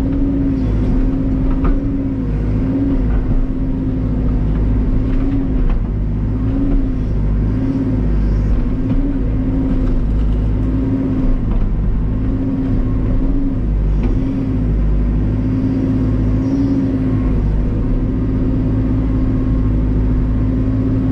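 Cat backhoe loader's diesel engine running steadily at working speed, heard from the operator's seat. Its pitch bobs up briefly every second or two as the boom and bucket are worked.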